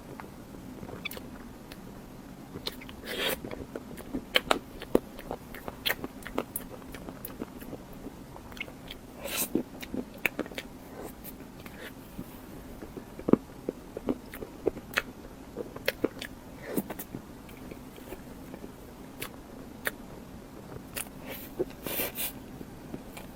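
A person eating close to the microphone: irregular crisp bites and crunchy chewing, with a few longer, louder crunches.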